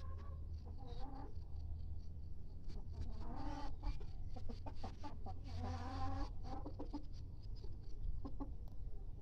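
Kampung chickens clucking in short, pitched calls, busiest about three and six seconds in, over a steady low hum.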